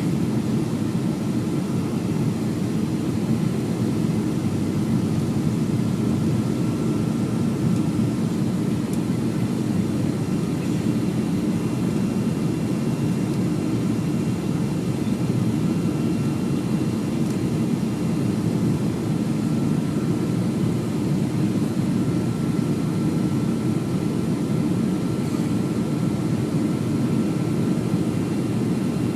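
Boeing 737-300's CFM56-3 jet engines running at steady power: an even low rumble with a faint thin whine above it.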